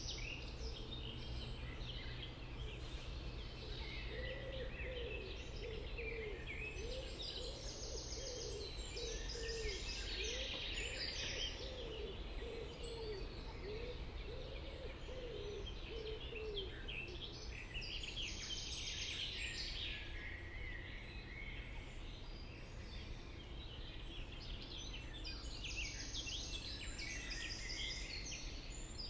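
Several songbirds singing at once in high, overlapping phrases. From a few seconds in until about halfway, a lower call repeats about once a second. A steady low background rumble runs underneath.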